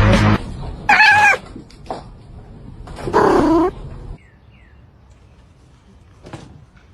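Cat meowing twice: a short call about a second in, then a longer, wavering one about three seconds in.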